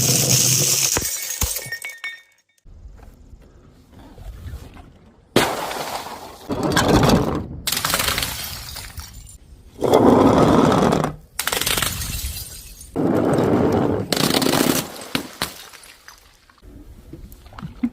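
Glass bottles shattering in a run of separate crashes, each with a clattering tail lasting about a second. There is a quieter gap early on, then about half a dozen breaks come in quick succession.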